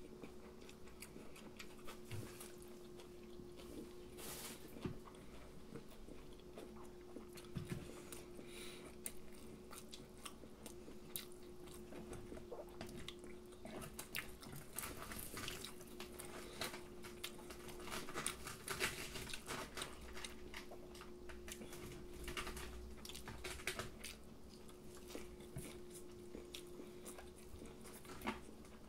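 Close-miked eating: chewing with scattered crisp crunches as bites are taken of breaded fried cutlet and fried chicken. A faint steady hum runs underneath.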